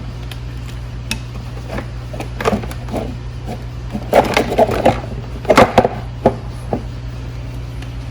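Plastic ATV body panels knocking, clicking and creaking as the body is worked loose from the frame, with a cluster of louder knocks about four to six seconds in, over a steady low hum.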